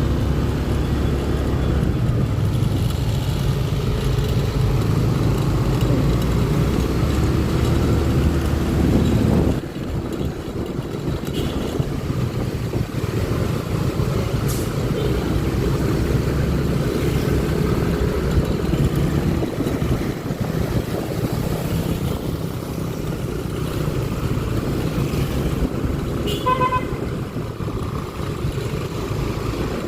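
Road traffic heard from a moving motor scooter: an engine running steadily, dropping about nine seconds in to a rushing wind and road noise, with a short horn beep near the end.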